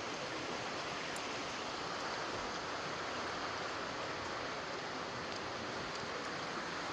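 A river rushing steadily, a constant even sound of flowing water.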